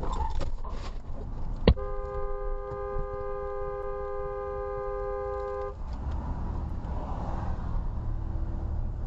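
A car horn gives one long, steady blast of about four seconds, a two-note chord, right after a sharp knock. A steady low road rumble runs underneath.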